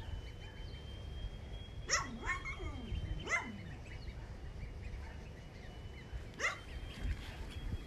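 Four short animal yelps, dog-like: three close together about two to three and a half seconds in and one more about six and a half seconds in. Underneath are a low outdoor rumble and a faint steady high tone.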